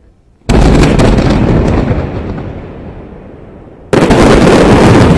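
Fireworks going off close by over the water. A sudden, very loud barrage of bangs and crackling starts about half a second in and dies away over about three seconds, then a second loud barrage starts shortly before the end and keeps going.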